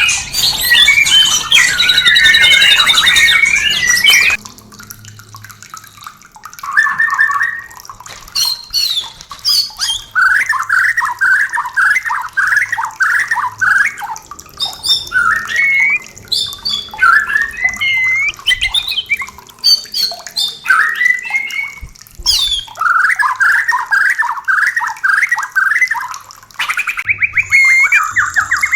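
White-rumped shama calling: a loud, dense stretch of chatter and song for the first four seconds, then bursts of rapid, harsh repeated notes mixed with short upswept whistles, growing loud and dense again near the end.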